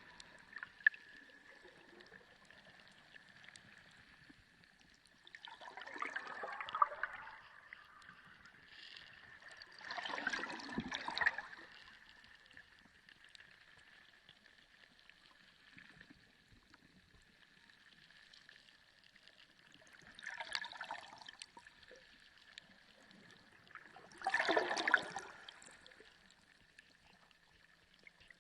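Ocean water heard underwater, swelling into washing, gurgling surges four times, a few seconds apart, with quiet stretches between. A faint steady high tone runs beneath.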